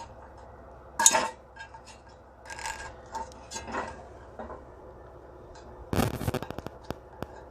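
Handling of a cheap metal frying pan: a sharp clank about a second in, then scraping and clinking, and a louder clatter near six seconds followed by a run of quick small ticks.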